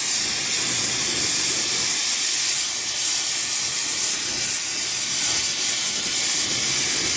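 Brazing torch flame burning with a steady hiss, heating the repaired engine manifold before brazing.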